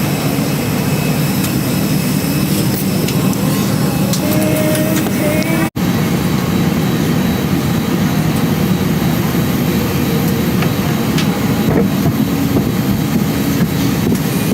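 Steady low rumble of a vehicle's interior in motion, with a brief cut-out about six seconds in.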